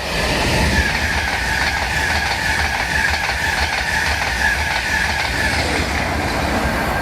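Passenger train running past on the main line: a steady, loud rush of wheels on rail with a high whine.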